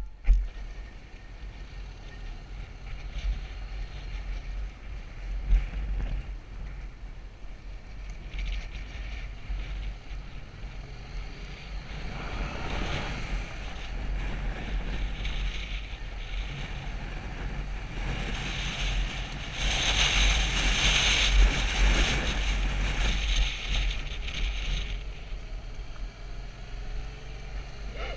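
Wind buffeting the camera microphone: a steady low rumble with gusts that rise and fall, strongest about halfway through and again for several seconds after.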